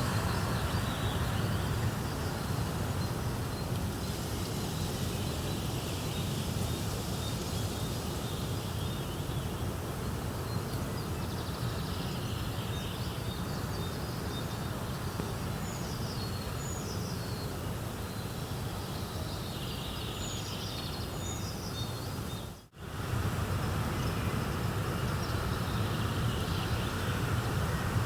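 Steady, even hiss of a nature ambience track, with short high bird chirps scattered through the middle. The sound dips almost to silence for a moment about 23 seconds in, then resumes.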